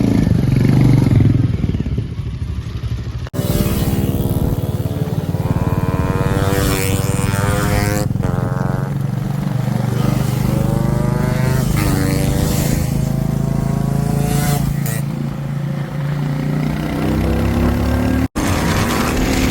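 Two-stroke motorcycle engines revving, the pitch climbing again and again as the throttle is opened and dropping back, with abrupt breaks about three seconds in and near the end.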